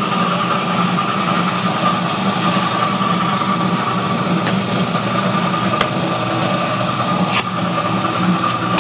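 Air compressor running steadily while air is pumped into a truck tire to seat its bead, with a couple of faint clicks near the end.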